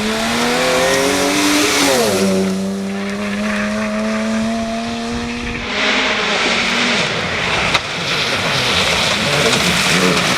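Rally car engine at high revs: the pitch climbs, falls sharply about two seconds in, then holds a steady note. Later it gives way to a loud rush of tyre noise, with one sharp knock about three-quarters of the way through.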